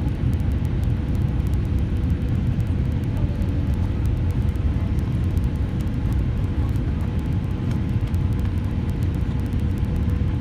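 Airliner cabin noise on the approach to landing: a steady low rumble of engines and airflow, with a faint steady hum above it.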